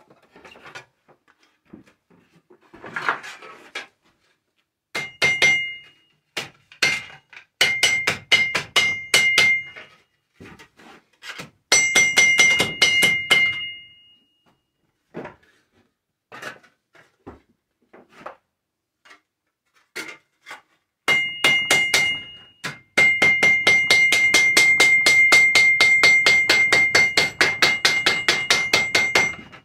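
A hammer striking tin-can metal on an anvil, each blow ringing with a high, clear tone. The blows come in short, uneven groups at first, then settle into a fast, steady run of hammering for the last several seconds.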